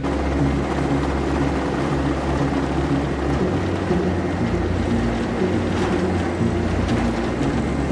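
Steady rushing noise of the P-8A Poseidon's twin turbofan jet engines, starting abruptly at the beginning.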